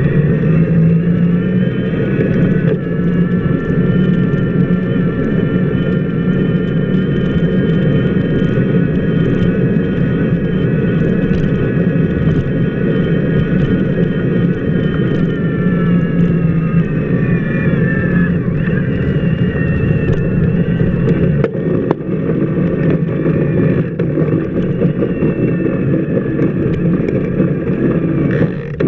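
Bicycle wheel rolling on wet pavement, heard from a camera mounted on the wheel hub: a steady, loud rumble with a whining tone on top. The whine sinks in pitch about two-thirds of the way through as the wheel slows.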